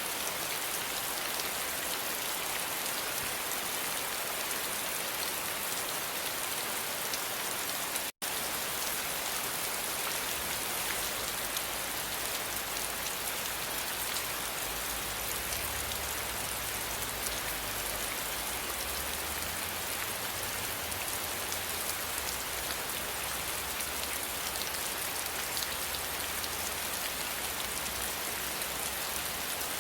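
Steady, dense rain falling and pattering on a surface. It cuts out for a split second about eight seconds in, then carries on unchanged.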